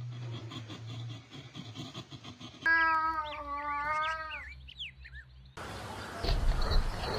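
Animal sounds cut one after another: a low rhythmic rumbling, then about three seconds in a loud pitched call held for nearly two seconds with short chirps above it, then a noisier stretch with scattered bird chirps near the end.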